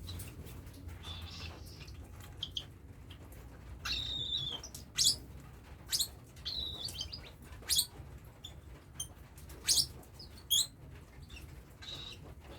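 Cockatiel chicks chirping: short, high calls with several sharp, loud ones scattered through, over a low steady hum.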